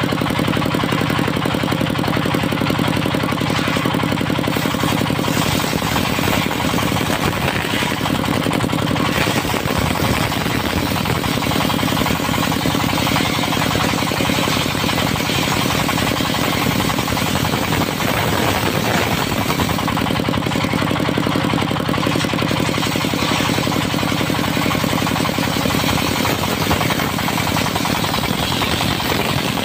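Diesel engine and circular saw blade of a mobile sawmill running steadily.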